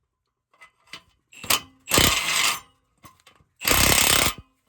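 Impact gun running down the nuts on an exhaust muffler clamp in two short bursts of under a second each, with a few light clicks and knocks before them as the socket goes on; the clamp is being drawn tight.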